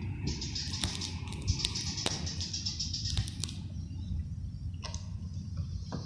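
Small birds chirping in a rapid high twittering that stops about three and a half seconds in, over a steady low rumble.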